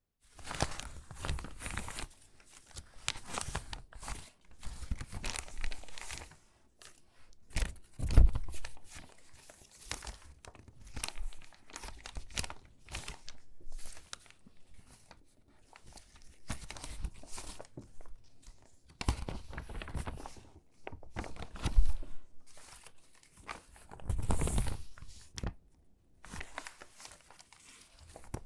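Crinkly, water-damaged magazine pages being handled and sorted by hand: stiff paper crackling and rustling in irregular bursts with short pauses, and a few louder crunches along the way.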